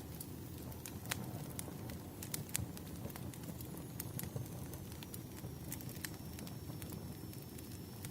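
Burning firewood crackling, with irregular sharp pops over a steady low rumble of flames. A faint, thin, high whistle comes in about halfway.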